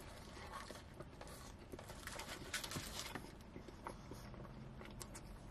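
Faint close-miked chewing of a shawarma wrap: soft wet mouth clicks and smacks, irregular throughout.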